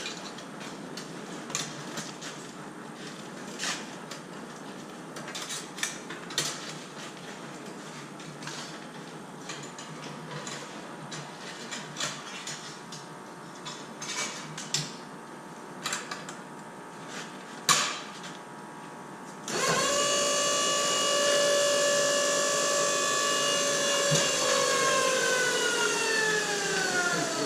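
Scattered clicks and knocks of handling for about twenty seconds, then the PET mini baler's battery-powered electric motor starts with a steady whine. Over the last few seconds its pitch falls as the motor slows under the load of compressing the plastic bottles into a tight bale.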